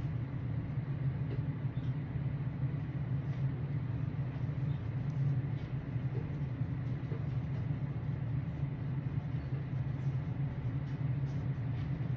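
Steady low rumbling hum of machine noise, even throughout, with a few faint light ticks.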